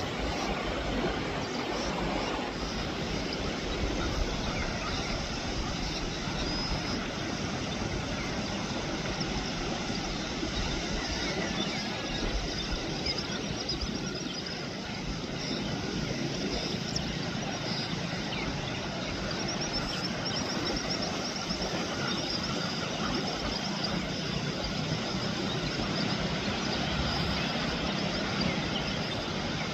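Steady rushing noise of surf and wind on a beach, with faint high chirps now and then.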